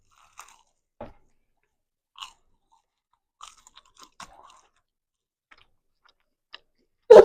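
Close-miked chewing of a homemade biscuit snack with bacon and sausage in it: scattered short, soft crunches and bites. There is a brief louder sound right at the end.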